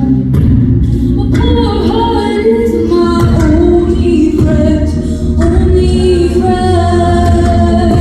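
A group of voices singing together in harmony, holding long chords that shift every second or two.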